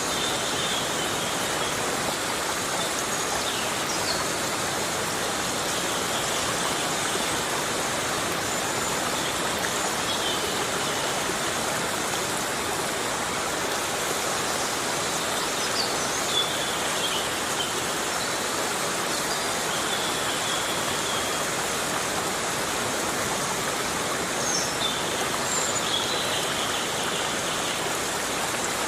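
Heavy rain falling steadily as an even hiss, with brief high chirps every several seconds.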